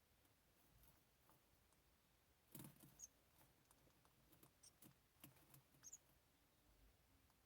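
Faint rustling and scratching in a nest, with a few brief, very high squeaks from house wren nestlings. The loudest rustle comes a little over two seconds in.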